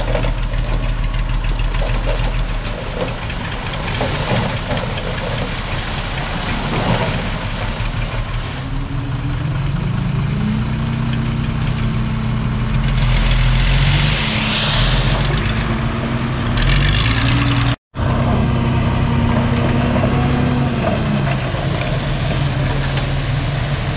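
Diesel engine of a Komatsu D51PX crawler bulldozer running, its revs rising about ten seconds in and holding at the higher pitch. There is a momentary break in the sound near the end.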